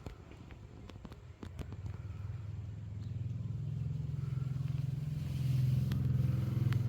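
A low motor rumble that starts about a second and a half in and grows steadily louder, with a few scattered clicks.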